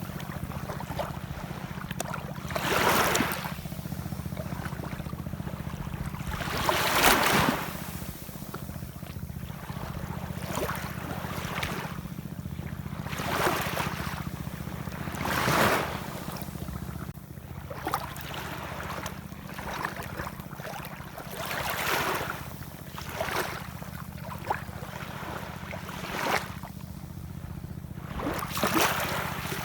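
Ocean waves washing in. Surges rise and fall every few seconds, the strongest at about 3 and 7 seconds, over a steady low rumble.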